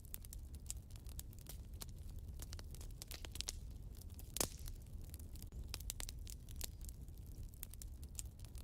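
Wood fire burning in a fireplace: irregular crackles and snaps over a low steady rumble, with one louder pop about four and a half seconds in.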